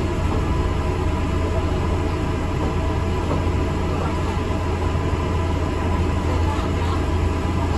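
Steady running noise heard inside the cabin of an ADL Enviro 400 MMC double-decker bus: a constant low engine drone with road and body noise, level and unchanging.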